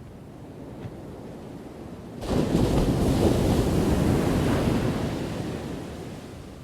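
Ocean waves crashing: a low rumble of surf, then a wave breaks suddenly about two seconds in, and its loud wash dies away over the next four seconds.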